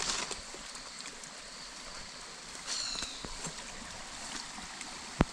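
Faint steady trickling-water hiss, with a brief high chirp about three seconds in and a sharp click near the end.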